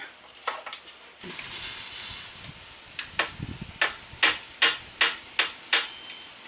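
Metal hand-tool work on a motorcycle's crash pan bolts: a soft hiss, then a regular run of sharp clicks, about three a second, like a ratchet wrench being worked.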